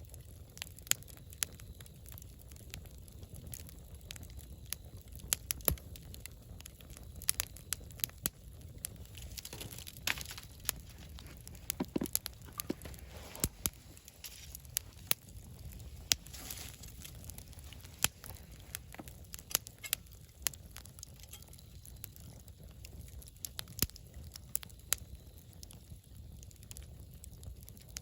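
Wood campfire burning, crackling with irregular sharp pops over a low steady rumble of flame. Brief hissing swells come and go about ten and sixteen seconds in.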